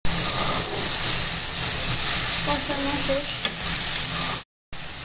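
Onion, tomato, ginger and garlic paste sizzling in hot oil as it is stirred with a metal spoon: the masala being fried down until the oil separates. The sound cuts out for a moment near the end.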